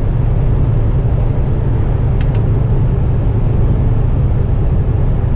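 Steady in-cab rumble of a tractor-trailer cruising on the highway: engine and road noise, with two faint clicks about two seconds in.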